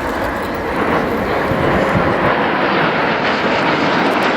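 Jet engine noise from Patrouille de France Alpha Jets flying past, a steady rushing sound that grows louder about a second in and then holds.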